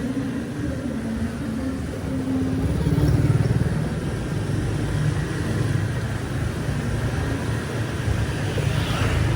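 Street traffic: vehicle engines running and passing, loudest as one goes by about three seconds in.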